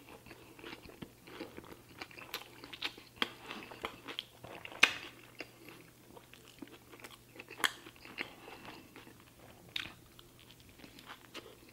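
A person chewing and biting into a hamburger soaked in cheese sauce, with many short smacking and crunching clicks; the sharpest come about five seconds in and again near eight seconds.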